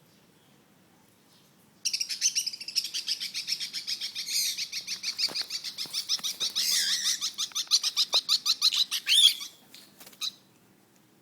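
Lovebirds chirping in a rapid, high-pitched run of calls, several a second, starting about two seconds in and breaking off after about seven seconds, followed by a couple of short calls.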